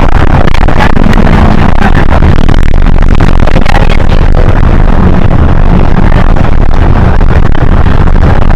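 Hino HS8JRVL city bus heard from on board while driving: a steady, loud low rumble of engine and road noise, with frequent small rattles.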